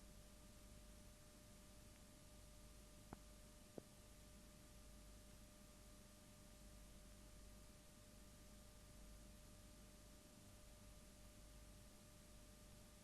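Near silence: faint steady hiss with a thin steady hum, and two faint clicks about three and a half seconds in, less than a second apart.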